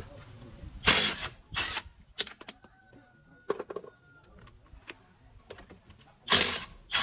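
Metal parts and tools clinking and ringing during work on a tractor's gearbox. There are several short bursts of hissing noise in pairs, and scattered sharp clicks.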